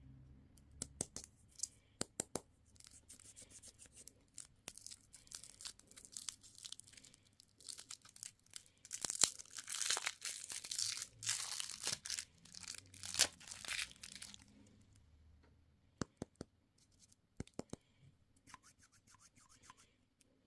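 A candy wrapper being torn open and crinkled by hand. Scattered sharp crackles come first, then a dense stretch of tearing and rustling lasts about six seconds in the middle, and it ends with a few more isolated crackles.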